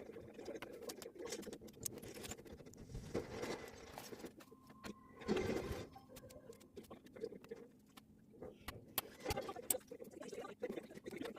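Small plastic building-brick pieces clicking and rattling as they are handled and snapped together, in a run of irregular sharp ticks, with a louder rustling burst about five seconds in.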